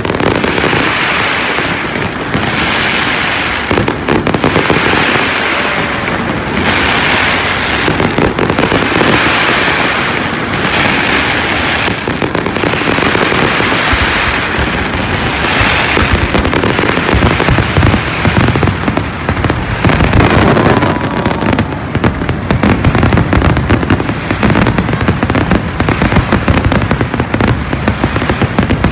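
Fireworks display: a loud, continuous crackle of many small bursts swelling and fading every couple of seconds, with deeper booms coming more often in the second half.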